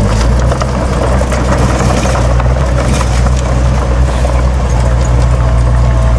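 Heavy diesel earthmoving machinery running steadily with a deep engine drone, over a continuous clatter of rattles and knocks.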